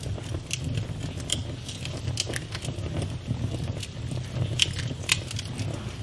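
Campfire burning: a steady low rumble of the flames with irregular sharp pops and crackles of the burning wood, two louder pops about a second and a half apart near the end.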